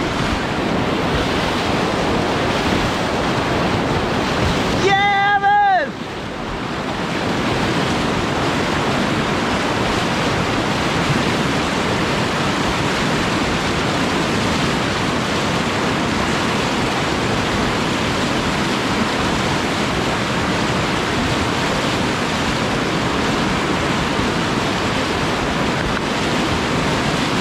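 Steady rush of whitewater from a river rapid. A person gives one short shout, falling in pitch, about five seconds in.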